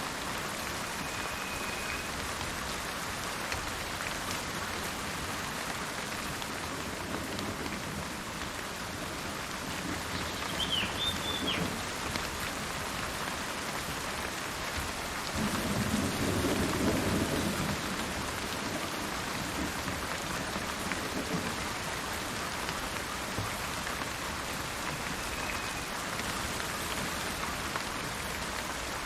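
Steady rain falling, with a low roll of thunder swelling about halfway through. A few brief, faint bird chirps sound over the rain.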